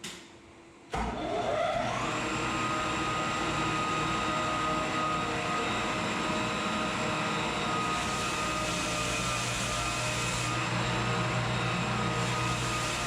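An electric floor sanding machine starts about a second in; its motor rises in pitch as it spins up, then runs steadily.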